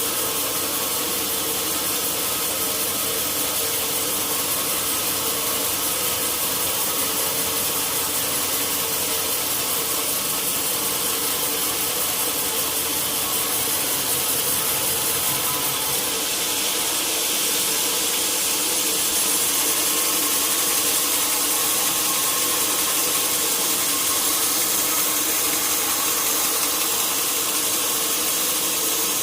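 Sawmill saw running steadily through a large log, a continuous machine noise with several held tones, slightly louder past the halfway point.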